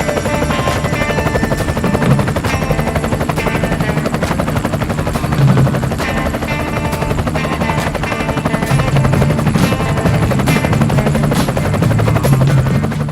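Helicopter running steadily in flight, a continuous rotor and engine throb.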